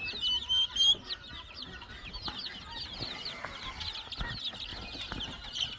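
A brooder full of young chicks peeping: many short, high peeps overlapping in a constant chorus.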